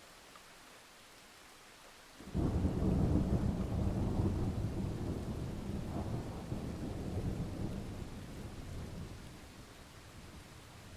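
Thunderstorm: over faint rain, a thunderclap breaks in suddenly about two seconds in and rumbles on, slowly dying away over the next several seconds.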